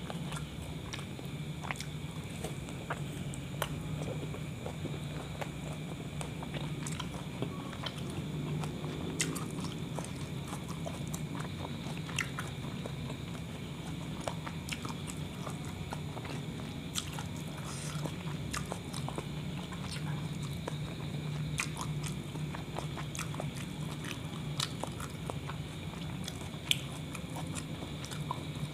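A person chewing and biting into a meat kebab wrap, with many small wet mouth clicks scattered throughout. A steady low hum runs underneath.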